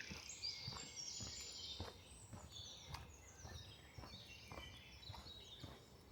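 Several woodland birds singing, busiest in the first two seconds, over a faint low hum of distant motorway traffic. Soft, evenly spaced footsteps sound beneath them, about two a second.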